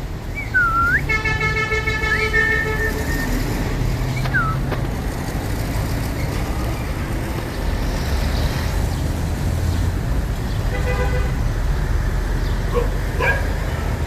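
Indian ringneck parrot giving a few short whistles, each dipping and rising in pitch, in the first few seconds, then a couple of sharp chirps near the end. A steady low rumble of road traffic runs under them.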